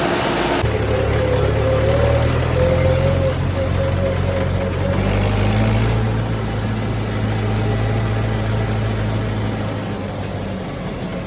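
JCB digger's diesel engine running steadily, a low drone with a higher wavering tone above it. About half a second in, a hissy rushing noise gives way abruptly to the engine.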